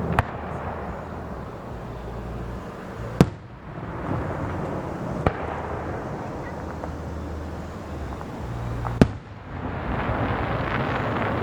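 Aerial fireworks display: four sharp shell bursts a few seconds apart, over a continuous noisy wash that swells after the bursts.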